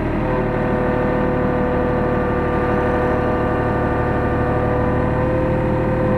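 Hyundai R35Z-9A mini excavator running steadily, heard from inside the cab: a constant engine note with a steady whine above it.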